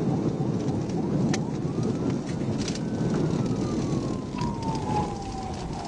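Police patrol car driving at high speed, heard from inside the cruiser: steady road and engine noise under its siren, which rises once and then slowly falls in pitch. A few sharp clicks sound over it.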